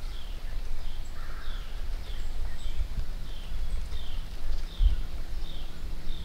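A small bird calling over and over, short falling chirps about twice a second, over an uneven low rumble.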